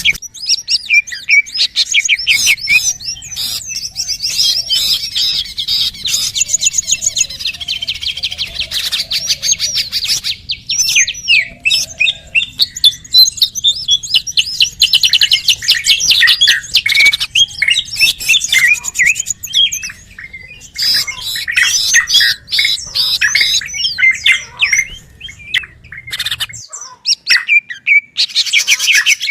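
Bird-lure recording of songbirds: dense, rapid high chirps and twittering trills, one after another without a break.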